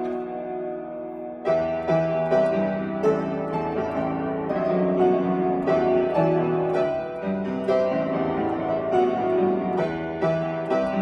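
Solo piano playing a pop-song arrangement, melody over chords. A chord rings on at the start, then new notes come in about a second and a half in and the playing moves on at a steady pace.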